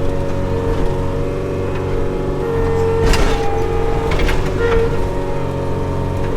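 Tractor engine running steadily, with an on-and-off whining tone and sharp knocks and rattles about a second apart, heard from inside the cab.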